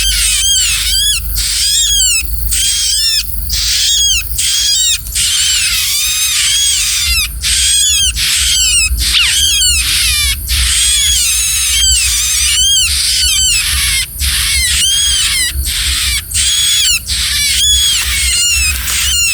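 Small bird, a bar-winged prinia (ciblek), giving rapid, repeated high chirps that run together in a continuous stream, several each second.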